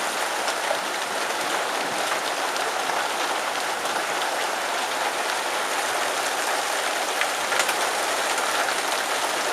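Heavy rain pouring steadily, falling on a metal porch roof overhead and splashing all around.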